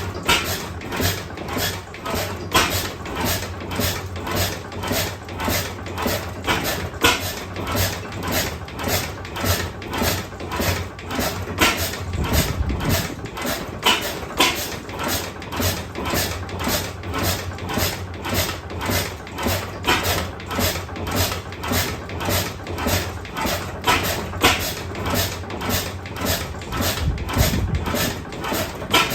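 A 5.5 hp Austral sideshaft oil engine from 1908 running slowly. It knocks steadily about twice a second, with a stronger beat every couple of seconds, over a low hum.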